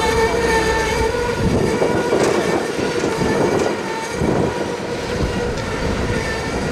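Slow-moving Norfolk Southern mixed freight train rolling by, just faster than a crawl: a continuous rumble of steel wheels on rail. Over it a steady whine, strongest for the first second and a half, and a few sharp clicks.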